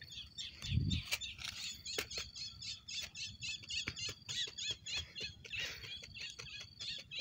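A bird chirping fast and repeatedly, several short high calls a second, over scattered clicks from a hand handling a wire-mesh trap, with one dull thump about a second in.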